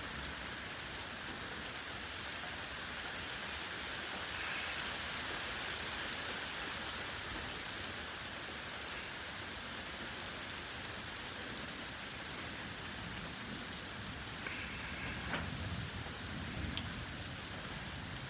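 Rain from a severe thunderstorm falling steadily, a little louder for a few seconds about four seconds in.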